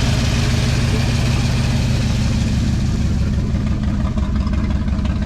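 1979 Ford F150's V8 engine idling steadily, running pretty good.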